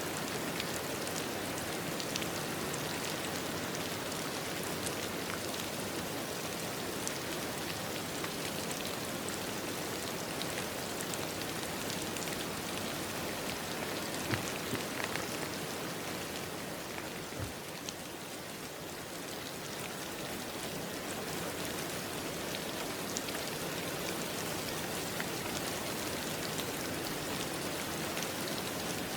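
Steady rain falling on a surface, with scattered individual drops ticking out above the wash; it eases slightly for a couple of seconds a little past the middle.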